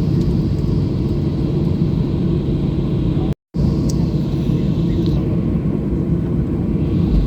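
Boeing 737-800's CFM56-7B jet engines running, heard from inside the passenger cabin as a steady low rumble. The sound drops out completely for a moment about three and a half seconds in.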